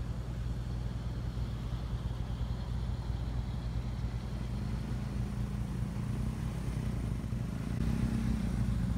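Engine of a stripped, wrecked compact car, its hood and front end gone, running with a steady low drone that grows louder near the end as the car drives past.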